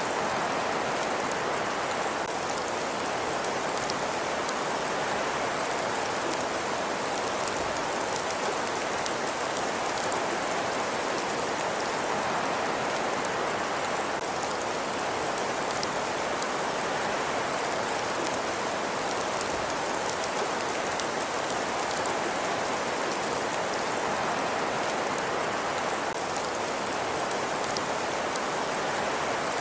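Fireplace ambience: a wood fire's steady crackling and hissing, with many fine, close-set crackles over an even hiss.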